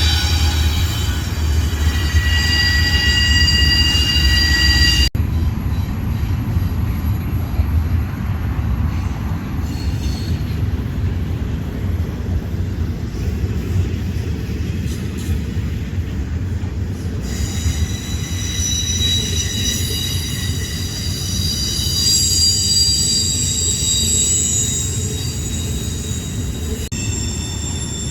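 Freight train running on the rails with a heavy low rumble and its wheels squealing in several high, held tones. The squeal drops out for a stretch in the middle and then returns.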